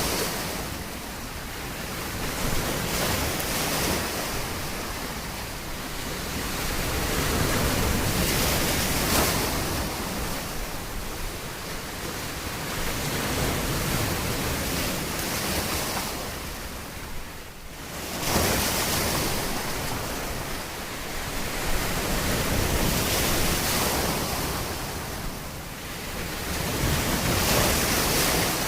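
Ocean surf on a shore: waves breaking and washing in, swelling and fading about every four to five seconds. There is a short lull and then a sudden surge about two-thirds of the way in.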